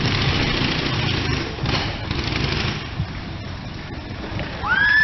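Vintage Indian Scout V-twin motorcycle engine running as the bike circles the wooden wall of death, louder for the first few seconds and then easing off. Near the end a loud rising whistle cuts in.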